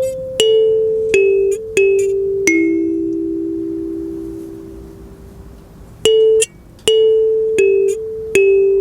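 Mahogany Haru kalimba with its metal tines plucked one note at a time in a slow melody. One note rings on and fades for about three seconds before the playing picks up again about six seconds in.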